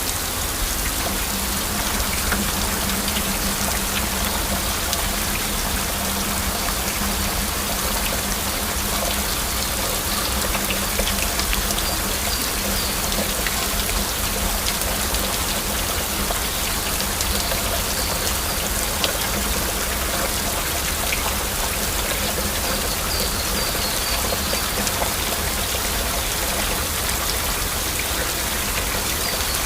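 Heavy rain falling steadily, a dense even patter with no let-up, with faint high chirps now and then.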